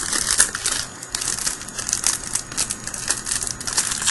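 Foil trading-card pack wrapper crinkling and crackling as it is handled and opened by hand.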